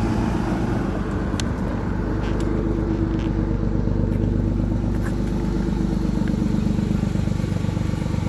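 Motor vehicle engine idling steadily, with a few faint clicks over it.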